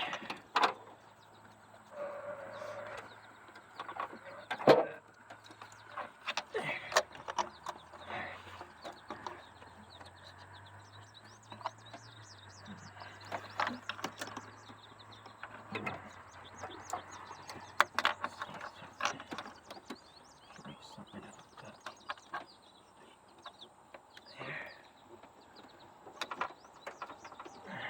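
Scattered clicks, knocks and rattles of a car's wiring-harness connectors and parts being handled and pushed into place in the engine bay, with one sharper knock about five seconds in.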